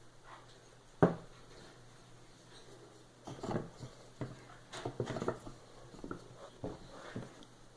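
A bee box being handled: a sharp knock about a second in, then irregular scraping and clicking.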